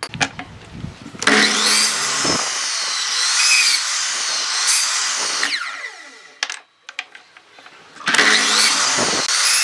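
A power tool working wood in two runs, a long one of about four seconds and a shorter one near the end, its motor winding down in pitch after the first.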